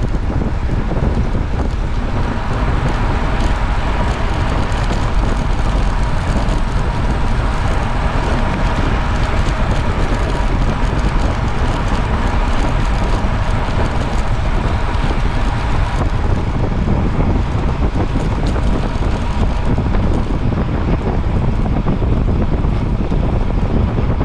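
Strong wind buffeting the microphone, a steady rumbling rush with a faint steady whine underneath.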